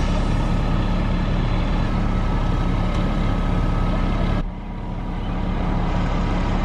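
A heavy engine running steadily with a deep, even rumble. About four and a half seconds in it drops suddenly in level, then slowly builds back up.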